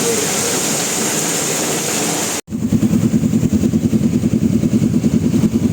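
A steady hiss, then, after a sudden cut about two and a half seconds in, a motorbike engine running with a fast, even pulsing beat.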